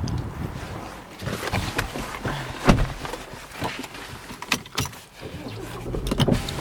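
A run of irregular clicks and knocks inside a car's cabin, over a low rumble; the sharpest knock comes nearly three seconds in.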